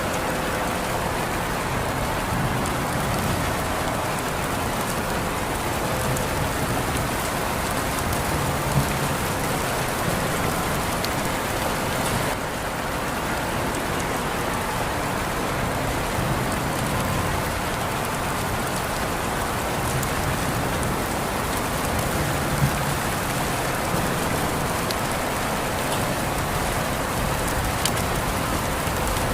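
Steady rain falling on a surface, with scattered louder drops ticking through it.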